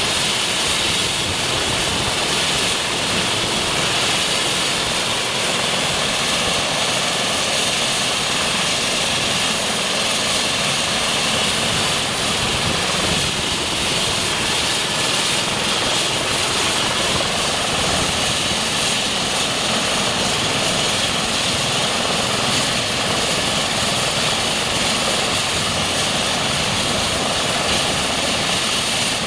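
Eurocopter EC135 T2 police helicopter running steadily, its twin turboshaft engines giving a constant high whine over the rotor noise.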